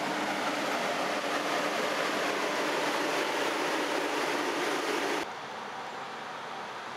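SJ X2000 electric train's power car rolling in past the platform, a steady rushing noise of wheels and running gear. About five seconds in it cuts off abruptly to a quieter steady hiss.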